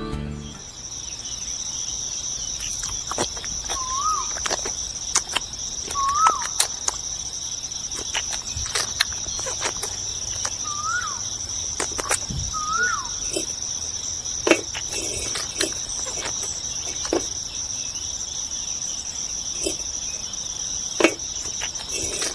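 Steady high-pitched insect chorus. Four short rising-and-falling bird chirps come in its first half, and scattered sharp clicks throughout.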